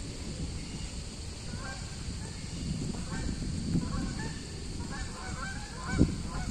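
Geese honking in a series of short calls, growing busier toward the end, over a low rumble, with one thump near the end.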